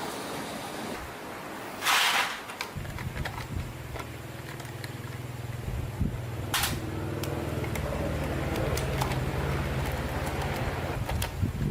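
Old motorbike's small engine catching about three seconds in and then running at a steady idle, just after a short loud burst of noise; another short burst comes a few seconds later.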